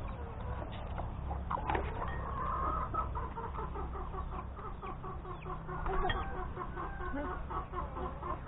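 Chickens clucking: a long run of short, evenly repeated calls, about four a second, over a steady low rumble.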